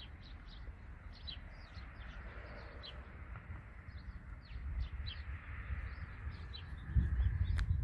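Small birds chirping repeatedly in short high calls. Beneath them a low rumble swells about seven seconds in.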